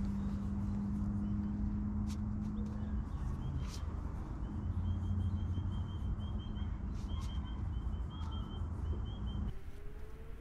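Outdoor bush ambience: a steady low rumble with a faint hum, and a bird giving a long run of short, rapid high chirps through most of it. A few sharp clicks sound over it.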